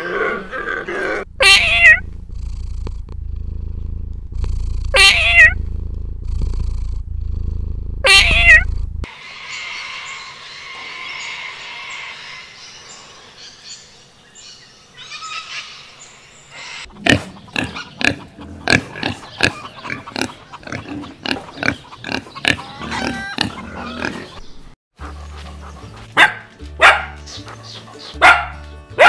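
A string of different animal calls cut one after another: first three loud falling calls a few seconds apart over a low steady drone, then a noisy stretch, then a rapid run of short grunt-like sounds, and near the end more loud calls over a low rhythmic backing track.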